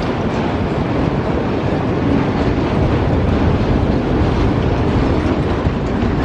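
A train's cars rolling past close by, a steady loud rumble of wheels on the rails.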